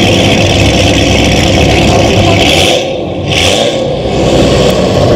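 Loud wind buffeting on the microphone: a steady rumbling roar of noise that dips briefly about three seconds in.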